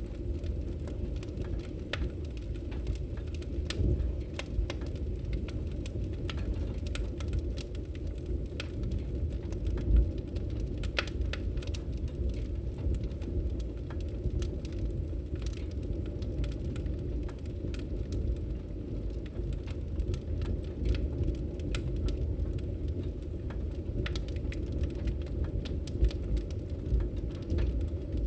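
Wood fire crackling in a fireplace: irregular small pops and snaps over a steady low rumble of flames, with one louder pop about ten seconds in.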